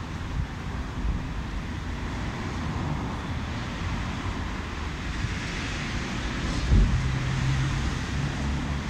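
Steady low rumble of city traffic in the background, with a dull low thump about two-thirds of the way through and a steady low engine hum after it.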